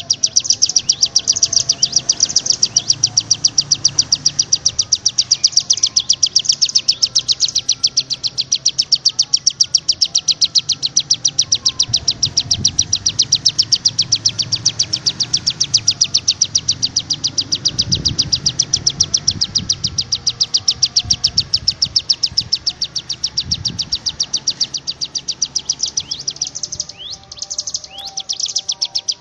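Songbirds calling together: a continuous, fast, evenly repeated high-pitched chirping, with fainter whistled notes from other birds beneath it and a few rising chirps near the end.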